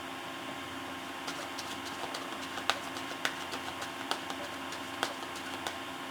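Tarot cards being shuffled and handled: a run of irregular light clicks and snaps, a few sharper than the rest, over a steady mechanical hum in the room.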